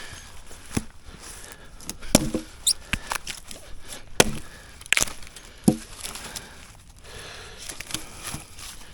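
Scattered, irregular knocks and clicks of objects being handled and set down, some with a short hollow ring.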